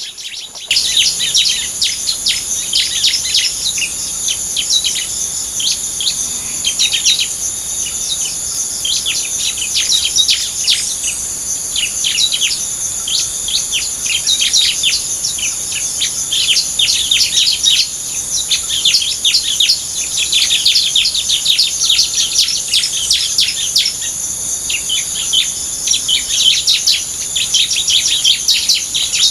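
Small songbirds chirping rapidly and densely in quick, high notes, starting abruptly about a second in, over a steady high-pitched insect drone.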